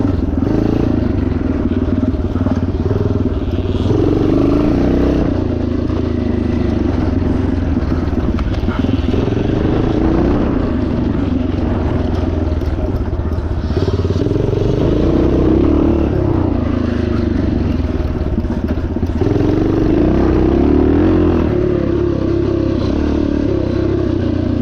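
1977 Yamaha TT500's single-cylinder four-stroke engine running hard, its revs rising and falling repeatedly as the bike is ridden.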